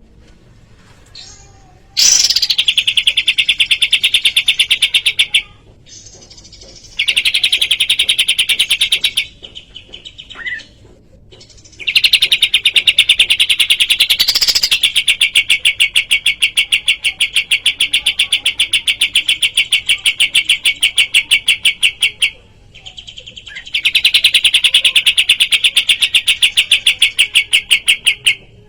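Kapas tembak songbird singing in long, very rapid trills of sharp repeated notes, in four bouts separated by short pauses.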